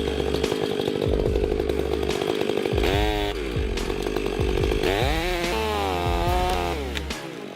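Chainsaw running at high revs, steady at first. Its pitch dips and climbs again about three seconds in, then rises, holds and falls off near the end as the throttle is worked.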